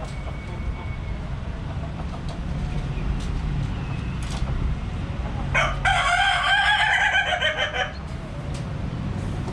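A rooster crows once, a single drawn-out call of about two seconds that rises and falls, starting a little past halfway through, over a steady low background rumble.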